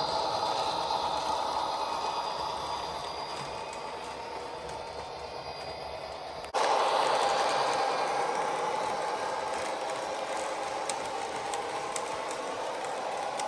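A model train running on the layout's track: a steady mechanical rattle and hum that eases off, then cuts abruptly to a louder stretch about halfway through that slowly fades again.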